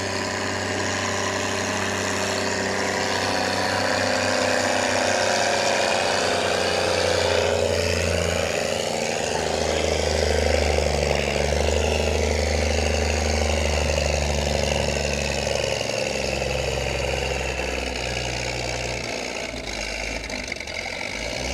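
Minneapolis-Moline G1000 tractor engine revved up and running hard under load, its pitch shifting as it works. It is loudest partway through and eases off near the end.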